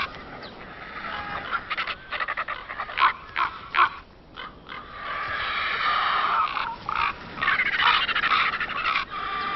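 Ravens and griffon vultures squabbling over a carcass. There are many short, harsh calls, then about halfway through a longer stretch of hoarse calling.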